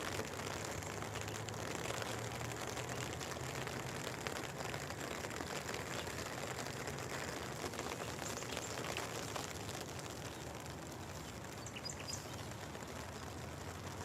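Steady rain falling, an even hiss, with a few faint high bird chirps near the end.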